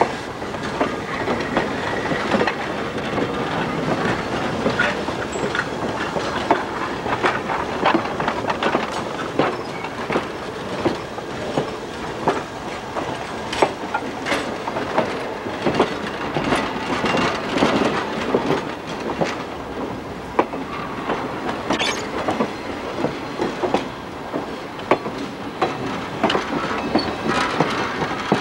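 California Western Railroad (Skunk Train) passenger coaches rolling past, their steel wheels clicking and knocking irregularly over the rail joints over a steady rumble.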